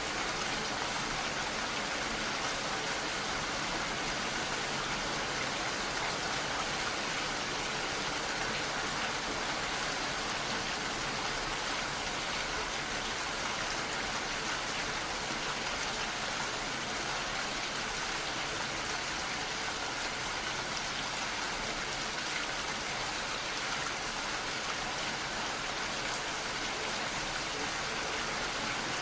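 Steady rain falling: an even, unchanging hiss of dense rainfall.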